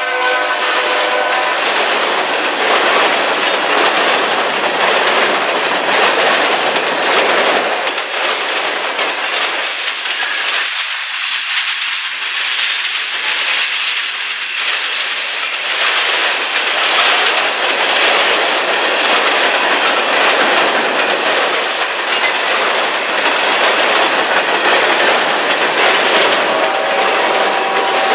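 Freight cars of a manifest train, mostly covered hoppers, rolling past close by with loud, steady wheel-on-rail noise and clatter over the rail joints. The locomotive's horn fades out in the first second or so.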